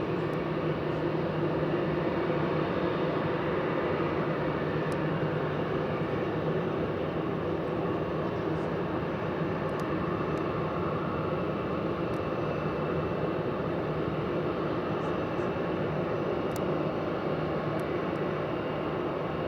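Boeing 777 freighter's GE90 jet engines running steadily: an even drone with several held tones that neither rises nor falls.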